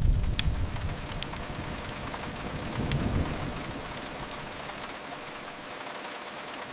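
Steady rain hiss on a window with a few sharp crackles from a wood fire. A low rumble sits under it at the start and swells again about three seconds in.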